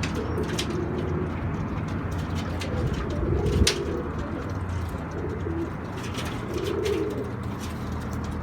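Domestic pigeons cooing, several low coos one after another, with scattered sharp clicks and a steady low hum underneath.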